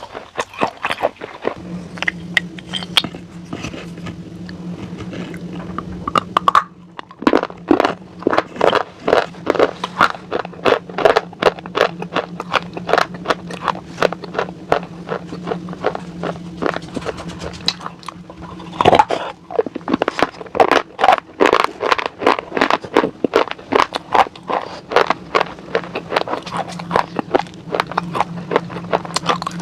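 Close-miked crunchy chewing and biting, about three sharp crunches a second with a short pause about seven seconds in, over a steady low hum.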